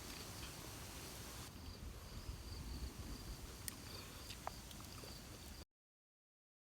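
Outdoor ambience: insects chirping in a steady high pulsing trill over a low rumble, with a couple of faint clicks. The sound cuts off abruptly about five and a half seconds in.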